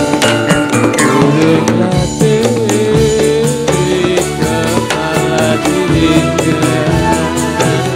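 Dolalak dance accompaniment played without singing: frame drums, drum and jingling percussion keep a steady beat under a wavering melody line.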